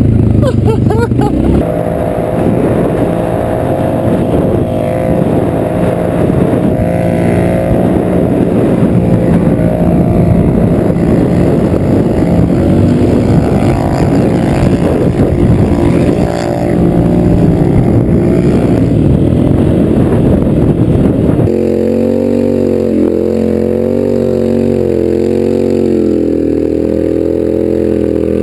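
Go-kart's Polaris Sportsman 850 twin-cylinder engine running loud and rough under throttle. About 21 seconds in it changes abruptly to a steadier, lower note.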